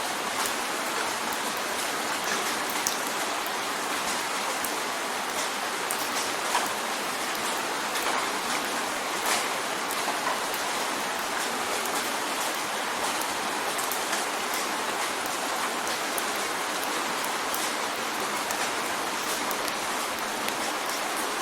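Steady rain drumming on a window pane, a dense hiss with many separate drops ticking against the glass.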